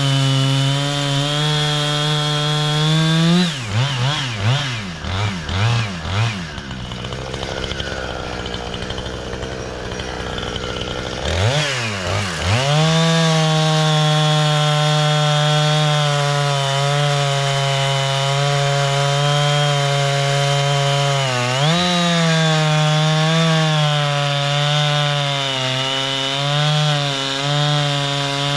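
Two-stroke gas chainsaw of about 60 cc running at high revs, cutting wood. A few seconds in, the revs swing up and down several times, then drop lower and rougher for a few seconds. About 12 seconds in it climbs back to steady high revs, with one brief dip in pitch later on.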